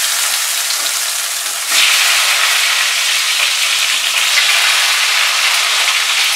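Brinjal slices sizzling as they fry in hot mustard oil in a kadai. The sizzle grows louder about two seconds in as more slices go into the oil.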